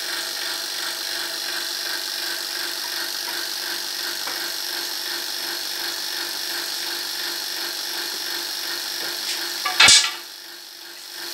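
Hair dryer blowing air into a small gas-fired melting furnace: a steady whirring rush with a motor hum. About ten seconds in comes one loud sharp knock, after which the noise drops sharply.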